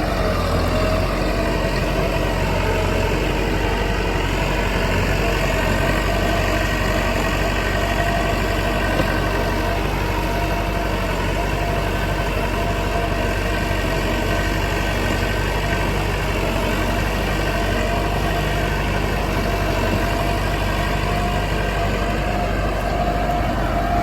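Tractor engine running steadily at an even level, with a held whine that drifts slightly in pitch.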